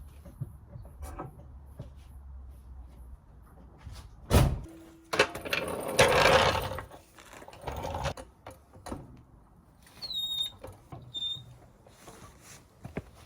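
Hand-tool work on a truck's steering tie rod end: scattered light metallic clicks and knocks, one sharp loud knock about four seconds in, then a couple of seconds of scraping and rattling.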